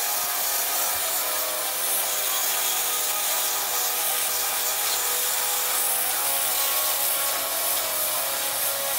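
Lotos LTP5500D plasma cutter's torch cutting through a rusty square steel tube: the arc gives a steady hiss that holds unbroken.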